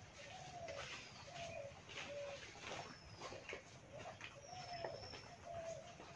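Birds calling: a repeated series of short, low cooing notes, with a few thin high whistles from other birds and scattered faint clicks.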